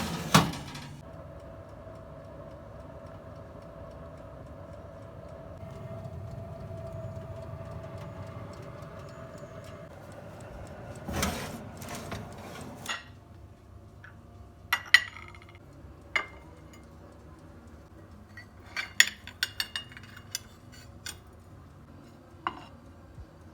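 Light clinks and taps of kitchenware being handled, scattered through the second half, over a steady low hum that carries a faint held tone for the first ten seconds. There is one louder knock about eleven seconds in.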